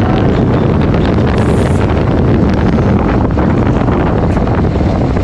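Wind buffeting the microphone of a riding motorcycle at speed, a loud steady rushing that covers the engine beneath it.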